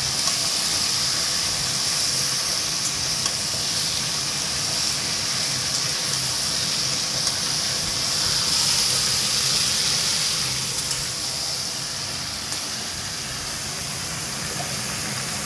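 Spice paste, tomato pieces and green chillies sizzling steadily in hot oil as they are fried down with raw jackfruit, a little louder about halfway through.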